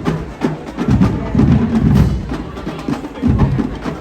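Drums and percussion playing a fast rhythm, with many sharp, clicking strikes over heavier, deeper drum hits.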